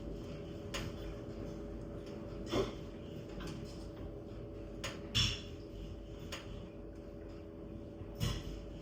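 Log fire crackling in a fireplace: sharp pops of burning wood every second or so, the loudest about two and a half and five seconds in, over a steady low background.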